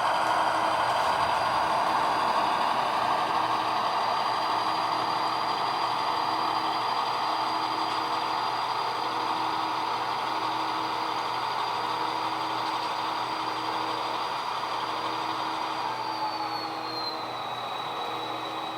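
HO-scale GP38 model locomotive's sound decoder playing EMD diesel engine sound through its small speaker, running steadily; about 16 seconds in its pitch drops as the engine throttles down.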